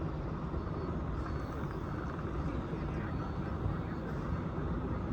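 Scania L94UB single-deck bus's diesel engine running steadily.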